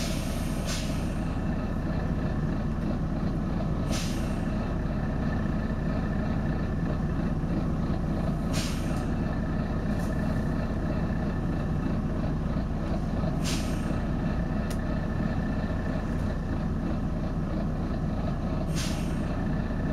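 Volvo B9TL bus running steadily, with a short, sharp hiss of air from its pneumatic system about every four to five seconds, five times in all.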